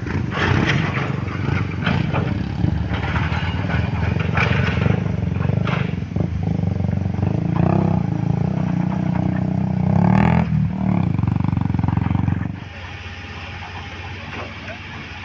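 A heavy engine running close by, with knocks and clatter over its low rumble, dropping away abruptly about twelve and a half seconds in to a quieter background rumble.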